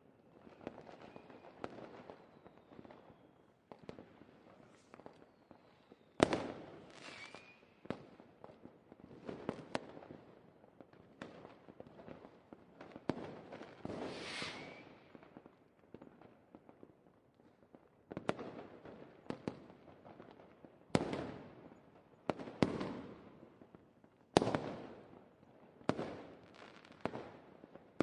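A fireworks display: a run of sharp bursts, each trailing off in a crackle, with the loudest bangs in the second half and a rising whoosh about halfway through.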